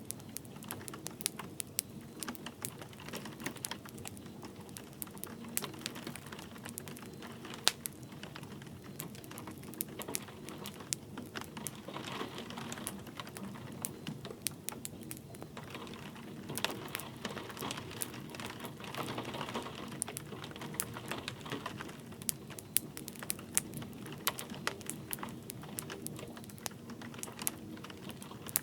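Wood fire crackling, with many irregular sharp pops and snaps over a steady soft hiss of light rain.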